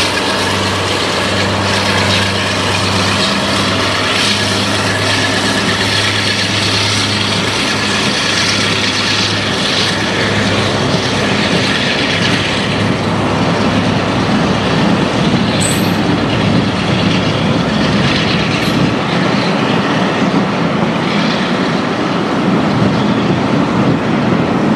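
A train: a locomotive's engine running with a steady low hum, then the rumble of the train on the rails growing louder about halfway through.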